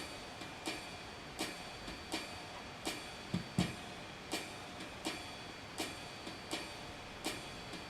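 Yamaha PSR-350 keyboard playing a sparse rhythm pattern: a quiet, steady metallic tick like a hi-hat on each beat, about one every three quarters of a second, with a single soft low thump a little past halfway.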